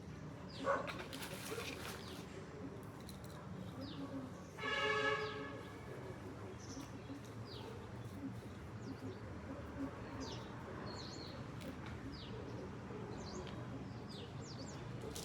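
Small birds chirping, with many short, quick high chirps scattered throughout. About five seconds in comes one louder, pitched sound lasting under a second.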